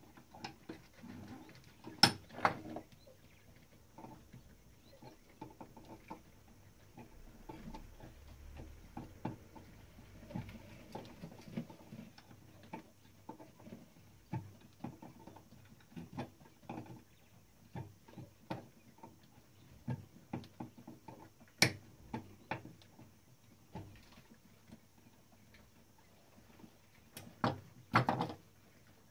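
Irregular small clicks, taps and knocks of tools and metal parts being handled during hands-on repair of a Klein Adler 2 typewriter, with a few sharper clicks about two seconds in, around two-thirds of the way through and near the end.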